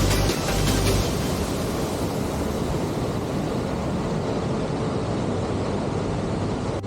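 Steady rushing of a waterfall, an even wash of falling water. Background music fades out about a second in.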